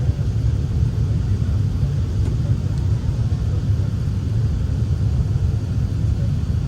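Steady low rumble of cabin noise inside an Airbus A380 airliner, engine and airflow noise heard from a passenger seat.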